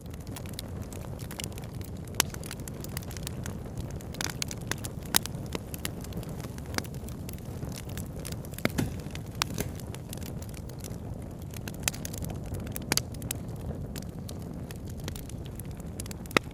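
Campfire crackling: irregular sharp pops and snaps of burning wood over a steady low rush.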